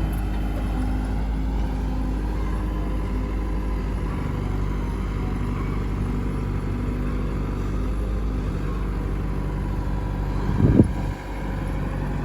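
Heavy diesel engine running steadily at a constant low note, with one short loud thump near the end.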